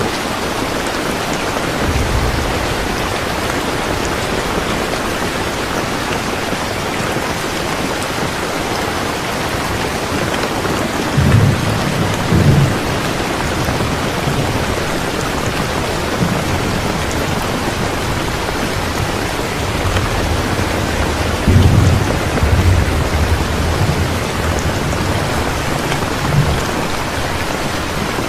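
Steady rain falling, with low rumbles of thunder swelling up several times, the strongest about a third of the way in and again past the three-quarter mark.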